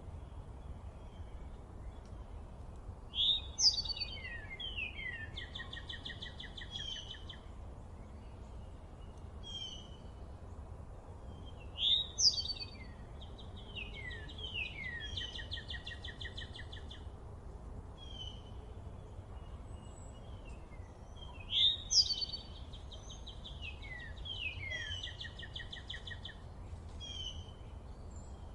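A songbird singing the same song three times, about every nine seconds: each song opens with quick sweeping notes, runs into a falling series and ends in buzzy trills. A steady low rumble lies underneath throughout.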